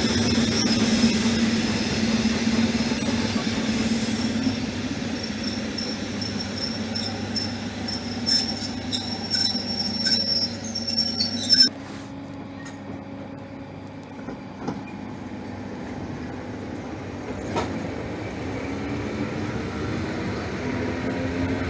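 Suburban electric train on the move, its wheels giving a high steady squeal with clicks over the rail joints. About 12 seconds in, the squeal cuts off abruptly and a quieter low hum remains, with tones that rise near the end.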